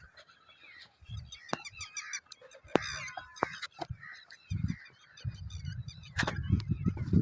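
A flock of starlings chattering and calling, many short, overlapping notes. Sharp clicks and low rumbling bumps come through too, heaviest in the second half.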